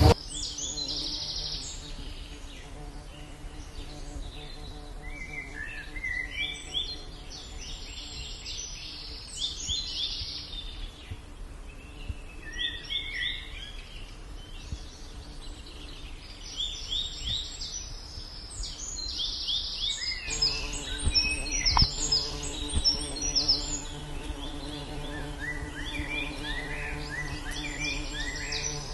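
Many birds chirping and calling in the trees in quick runs of short notes, with a steady low buzzing hum underneath that grows louder about two-thirds of the way through.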